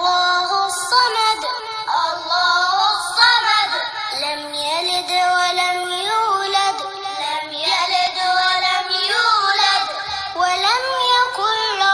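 Music with a high, child-like voice singing a melody, gliding between held notes.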